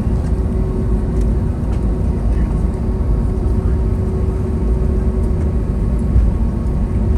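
Steady low rumble with a constant hum inside the cabin of an Airbus A321neo rolling on the ground after landing, its Pratt & Whitney PW1100G geared turbofans at idle.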